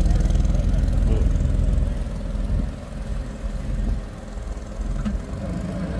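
Car engine idling with a deep, steady rumble, louder for the first two seconds and then easing to a lower level.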